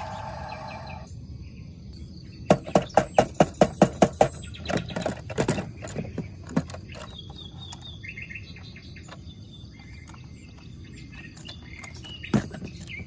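Birds chirping in the background. A quick run of about nine sharp clicks or taps starts about two and a half seconds in, followed by scattered lighter taps and one more click near the end.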